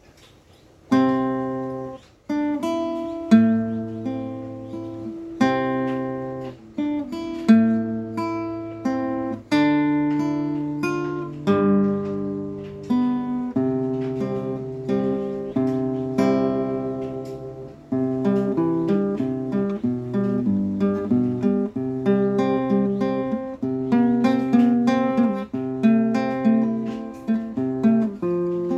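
Acoustic guitar being played, with no singing. Chords are struck and left to ring every second or two at first, then quicker picked notes follow in the second half.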